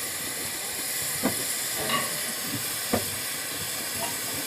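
Steady hiss of escaping steam from a steam locomotive, with a few short knocks.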